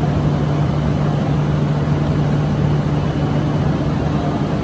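Shinkansen train standing at the platform, its onboard equipment giving off a steady loud hum with a low drone.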